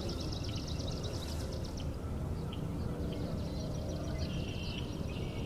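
Outdoor spring soundscape of wild songbirds: two rapid, high-pitched trills of quickly repeated notes, one at the start and one from about three and a half seconds in, over a steady low background rumble.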